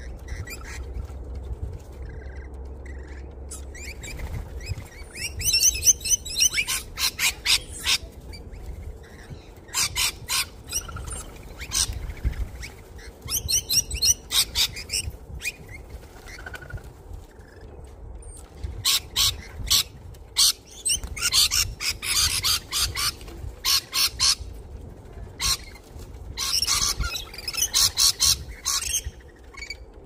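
Wild birds at a seed feeder calling in repeated bouts of rapid, sharp chirps and squawks, each bout lasting a second or two with short pauses between.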